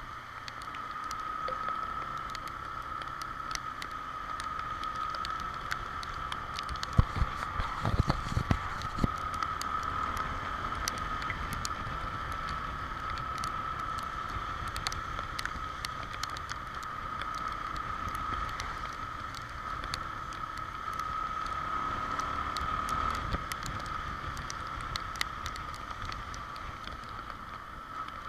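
Honda XR Tornado trail motorcycle riding in the rain: steady engine and wind noise with a steady whine, and many small ticks of raindrops hitting. A cluster of louder knocks comes about seven to nine seconds in.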